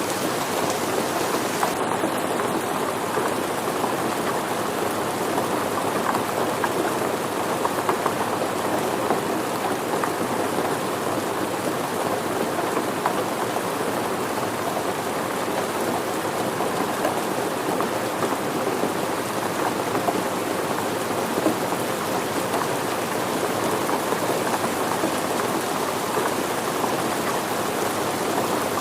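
Steady rain falling and pattering on surfaces, a dense even hiss of many small drops with no pauses.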